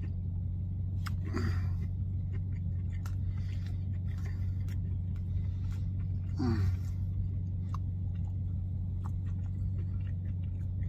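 Steady low hum of a car's cabin with the car running, under a man chewing a bite of a fried chicken sandwich, with small mouth clicks. Twice, about a second and a half in and again about six and a half seconds in, he lets out a short falling "mmm" of enjoyment.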